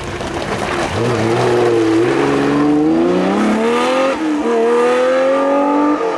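Off-road rally car accelerating hard, its engine note climbing through the gears, with upshifts about two seconds in, about four seconds in and again at the end.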